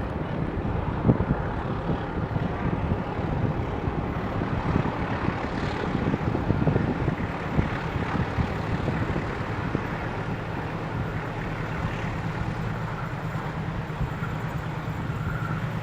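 Argo Parahyangan passenger train running, a continuous rumble with many short knocks in the first half and a steady low engine hum in the second half.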